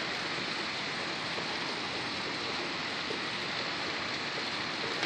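Rain falling steadily: an even hiss with no let-up.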